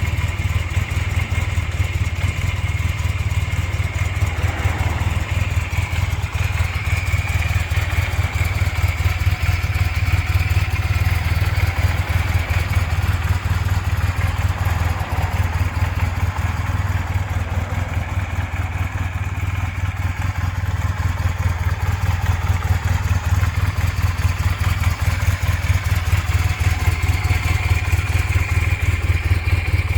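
Honda CB400N Hawk III parallel-twin engine idling steadily, with an exhaust note that is not loud.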